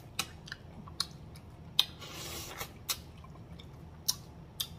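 Close-up eating sounds: a person chewing turkey neck meat eaten off the bone by hand, with wet lip smacks about once a second and a longer wet sound a little after two seconds in.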